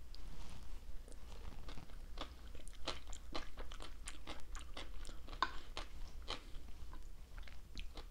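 Close-up chewing of a mouthful of casserole with shredded lettuce: many small, crisp crunches, several a second.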